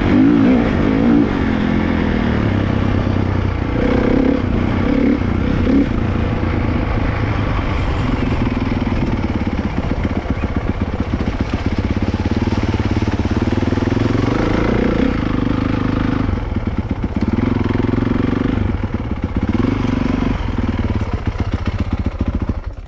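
Dirt bike engine running hard and revving, its pitch rising and falling repeatedly as the throttle is worked.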